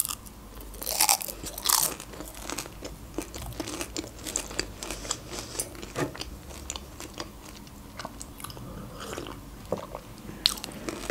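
A person biting into crunchy fried food, with two loud crunches about one and two seconds in, then chewing with many small crunches.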